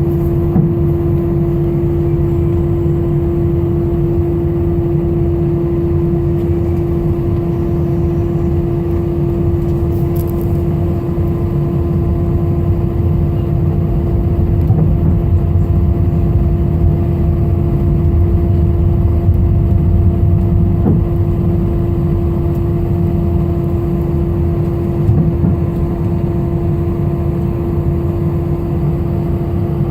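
Jet airliner engines during takeoff, heard from inside the cabin: a steady whine over a heavy low rumble.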